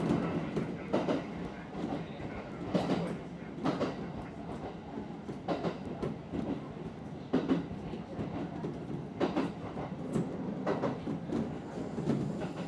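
Kintetsu Ikoma Line commuter train running, heard from inside its end cab: a steady rolling rumble with the wheels knocking over rail joints every second or two, often in pairs.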